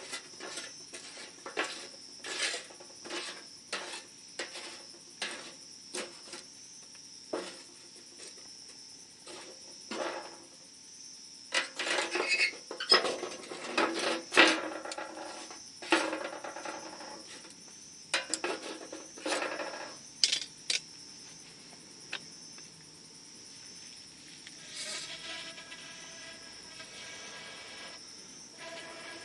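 Wood campfire crackling, with irregular sharp pops and snaps that come thickest in the middle, over a steady high-pitched insect trill.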